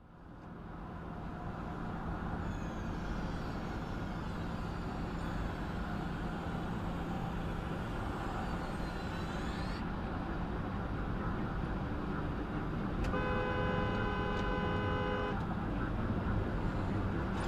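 Steady road and engine noise of a car driving, as picked up by a dashcam. A car horn sounds about two-thirds of the way in and is held for about two seconds.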